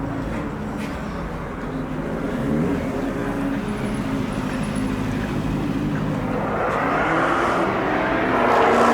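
Car engines running, with a rush of noise that builds over the last two or three seconds.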